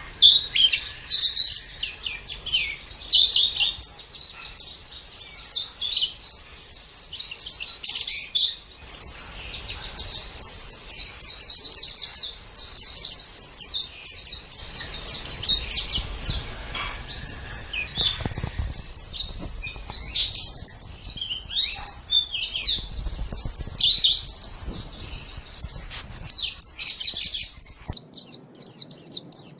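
White-eye (pleci) singing a continuous, rapid, high twittering song of short chirps and trills. About two seconds before the end the sound changes abruptly, as if a different recording is spliced in.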